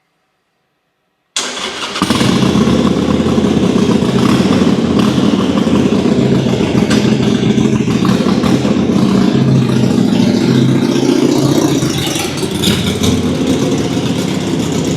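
Harley-Davidson Sportster 883 V-twin engine starting up about a second in, then running steadily at idle.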